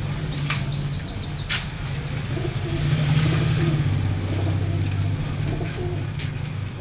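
Pigeons cooing in a loft, a low steady coo throughout, with two sharp clicks about half a second and a second and a half in.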